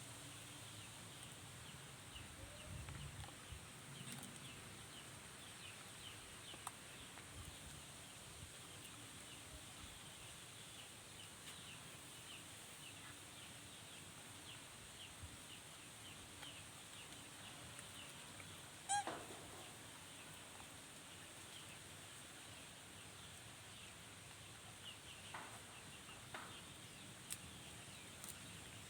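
Faint outdoor ambience: many small bird chirps throughout, with one louder animal call about two-thirds of the way in and a few light clicks.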